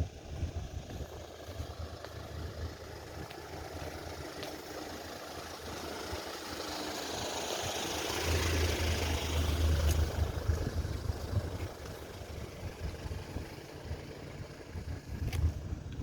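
An engine passing by: it grows louder over several seconds, is loudest about nine seconds in, then fades away, over a steady low rumble.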